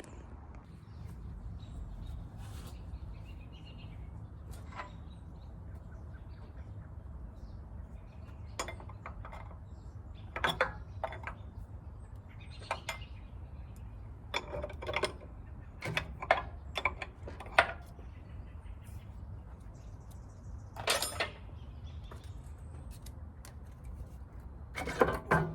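Metal tools and parts clinking and knocking at irregular intervals while a generator is dismantled for scrap, over a steady low hum.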